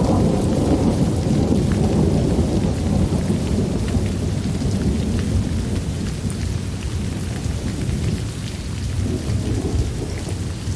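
Steady rain with a deep rolling thunder rumble, easing off somewhat in the second half.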